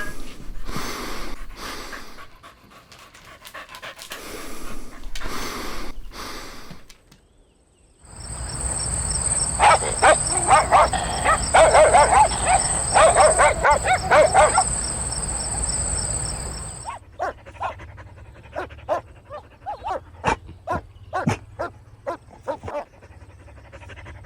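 Puppies: first a few breathy panting strokes, then a fast run of high yapping and yelping over a steady high whine, then a string of short, sharp yips.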